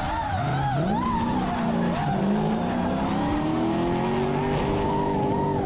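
A car drifting, its tyres squealing with a wavering pitch while the engine is held at high revs, the revs climbing steadily through most of the slide.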